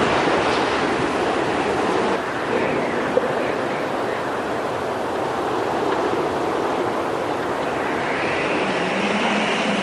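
Steady road and wind noise of a car driving, with a faint tone coming in near the end.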